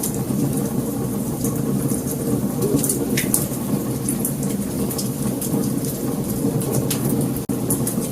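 Wood fire burning, with a steady low rumble of flames and frequent sharp crackles and pops of burning wood. The sound drops out for an instant about seven and a half seconds in.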